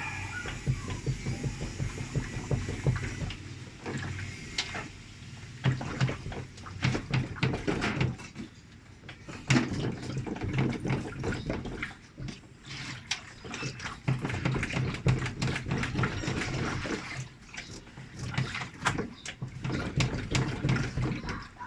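Water sloshing and splashing inside a top-load washing machine tub, with irregular knocks and clatter of parts being handled.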